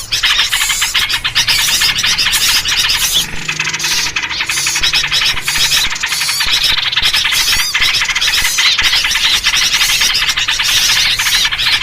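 A dense, continuous chorus of many small birds chirping and chattering at once, with yellow-vented bulbul calls in the mix. It is the noisy bird commotion played to lure wild birds in.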